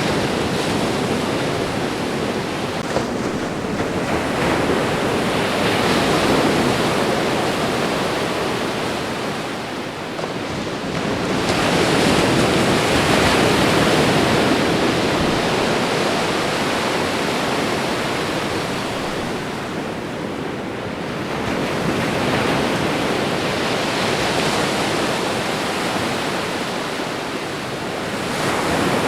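Ocean waves washing onto a shore in a continuous rush, swelling and easing every several seconds as each wave breaks and draws back.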